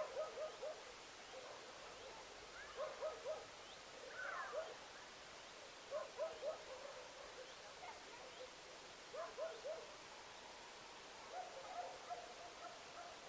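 Animal calls: short hooting notes in quick groups of three or four, repeated about every three seconds, with fainter higher chirps in between.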